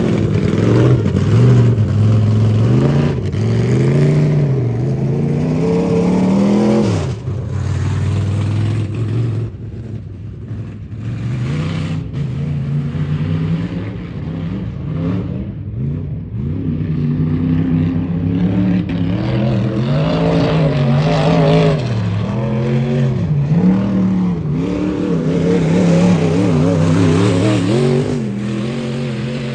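Dirt-track race car engine at speed. Its pitch climbs steadily, then drops off sharply about seven seconds in. After a quieter stretch it rises and falls again and again.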